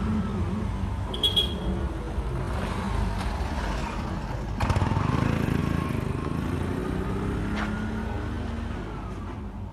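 Street noise with a motor vehicle engine running, its pitch rising and falling. A short high chirp comes about a second in and a sharp knock about halfway through.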